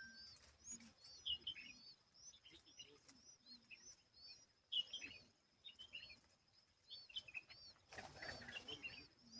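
Small birds chirping: many short, high chirps, some in quick runs, over a faint steady high whine.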